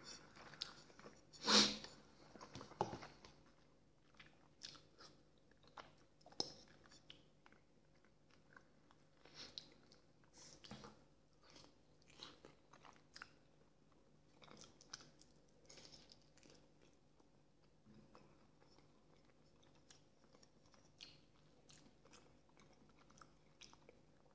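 Close-up chewing and wet lip smacks as a man eats soft boiled potato vareniki with sour cream: short, scattered mouth sounds, with one louder sharp click about a second and a half in.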